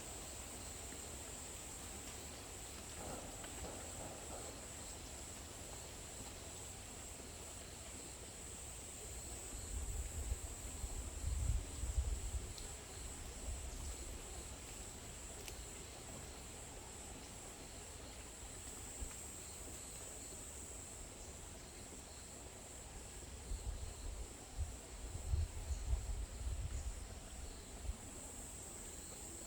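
Insects chirring in one steady, high, even band, with low rumbling bursts on the microphone twice, about ten seconds in and again near the end.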